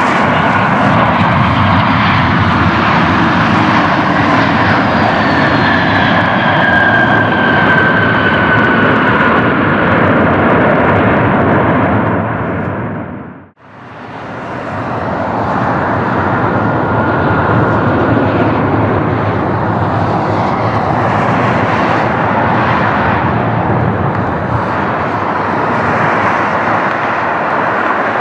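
Jet airliner engines heard as a loud, broad rush with a thin whine that falls slowly in pitch. About halfway through the noise fades away to silence for a moment, then loud engine noise swells back up.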